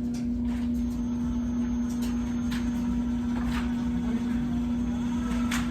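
Steady machine hum with a low rumble underneath and a few faint clicks.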